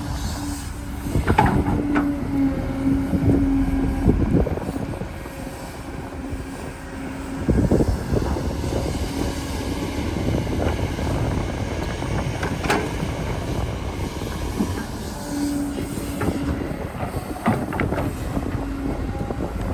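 Excavator at work: a steady machine noise with a humming tone that comes and goes in stretches of a few seconds, and several sharp clanks.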